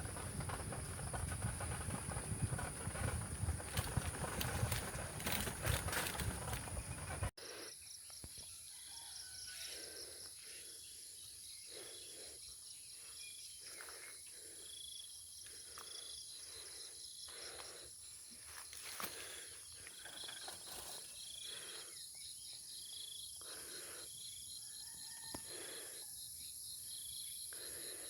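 Rural outdoor ambience: insects keep up a steady high buzz and a fast pulsing chirr, with repeated short calls, likely birds, about once a second. For the first seven seconds a louder, rougher noise covers it, then stops abruptly at a cut.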